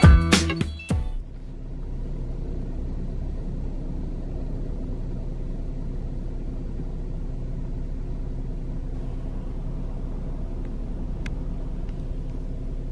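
Car engine running at a steady idle: a low, even hum. Background music cuts off about a second in.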